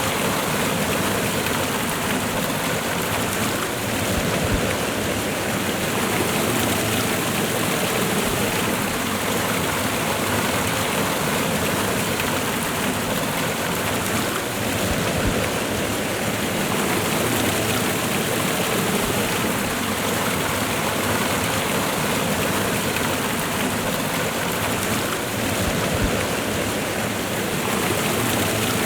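Waterfall and river water running steadily, a constant full rushing noise without pause.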